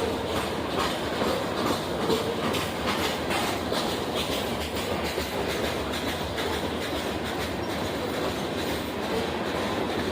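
Train rolling past steadily, its wheels clicking over the rail joints.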